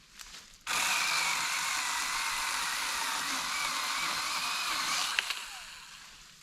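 Power saw cutting through a tree limb for firewood: the motor starts suddenly under a second in and runs steadily with a wavering high whine, then winds down near the end.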